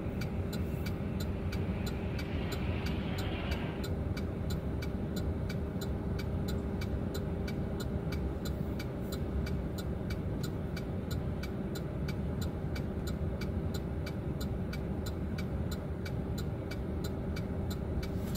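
Chevrolet Silverado pickup heard from inside the cab while driving: steady engine and road rumble with a constant hum. Over it runs an even ticking, about three ticks a second.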